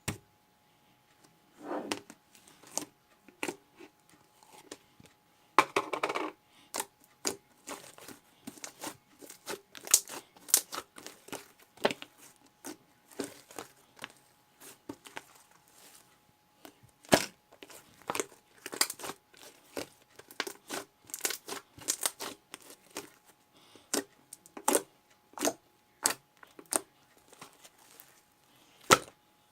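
Irregular sharp clicks and taps with brief crinkling rustles, as of small objects or packaging being handled close up.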